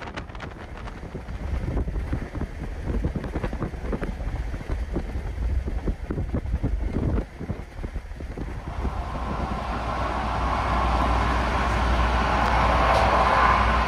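Passenger train running at speed, its wheels rumbling on the rails with irregular buffeting over the top. From about eight seconds in the noise grows into a louder, steadier rush as the train runs onto the enclosed rail deck of the Öresund Bridge.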